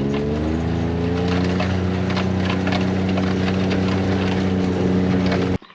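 A vehicle engine speeding up over the first second or so and then running steadily, with light rattling over it; the sound cuts off abruptly near the end.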